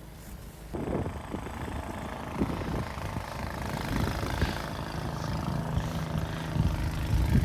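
An engine running steadily, with a hum that gets much louder about a second in.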